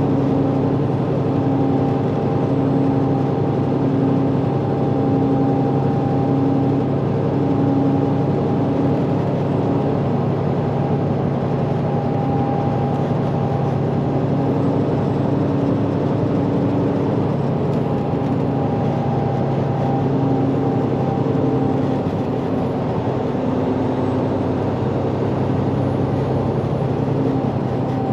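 Semi-truck's diesel engine running steadily at cruise with road noise, heard from inside the cab; the engine note eases slightly about two-thirds of the way through.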